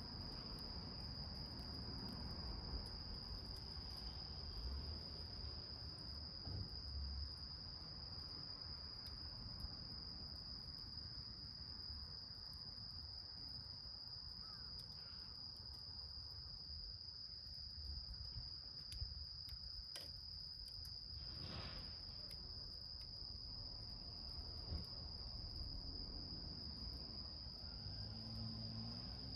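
A cricket's steady high-pitched trill that never stops, over a low rumble, with scattered faint crackles and ticks from a small wood fire burning in a can.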